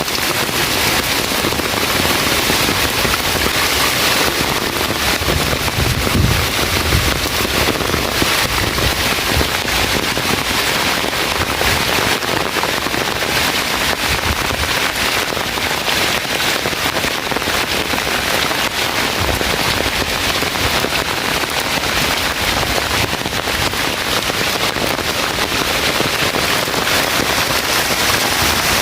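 Heavy rain falling steadily, a dense, unbroken crackling patter of drops.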